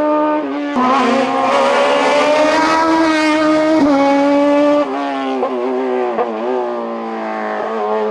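Race car's engine running hard at high revs on a hillclimb, its pitch holding high and shifting with gear changes. About five seconds in it gets quieter and its pitch drops and wavers as the throttle is lifted and blipped.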